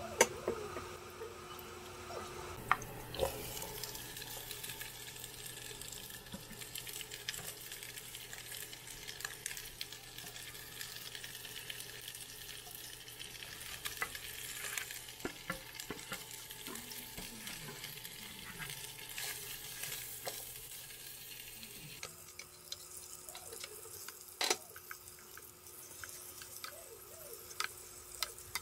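Chopped onion and garlic frying in oil in a pan, then pieces of roast pork tipped in and stirred with a wooden spatula: a steady sizzle with scraping and occasional sharp knocks of utensils against the pan.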